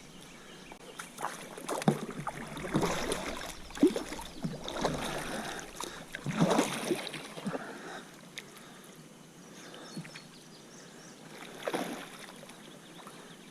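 Water splashing and sloshing around a fishing kayak in irregular bursts during the first eight seconds or so, then quieter lapping with one more splash near the end.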